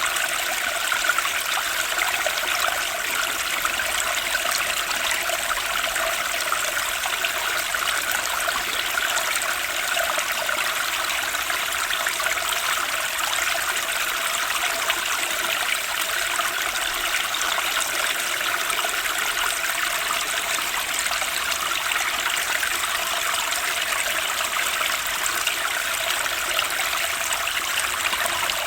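Turbulent spring stream rushing and gurgling, a steady, unbroken water noise.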